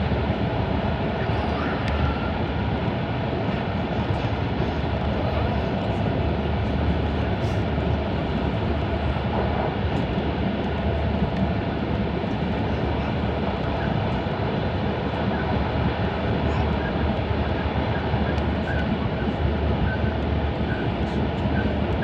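Steady running noise heard inside the passenger cabin of an E5 series Shinkansen at speed: an even rumble from the wheels on the rails with air rushing past the car body, holding level throughout.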